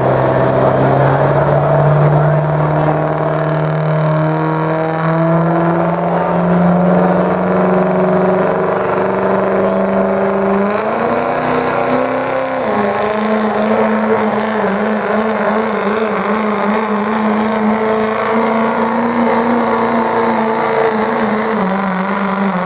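Diesel pickup truck engine working under full load while pulling a sled. Its revs climb steadily for about ten seconds, with a thin high whistle rising alongside. There is a break and change in pitch at around eleven to thirteen seconds, then the engine holds steady at high revs.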